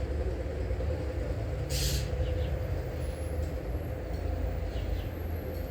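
A low steady rumble with a few faint, short bird chirps over it, and a brief hiss about two seconds in.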